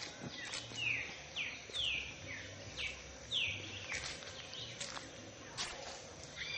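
A songbird calling in a run of short, downward-slurred chirps, about two a second, over a steady outdoor hiss.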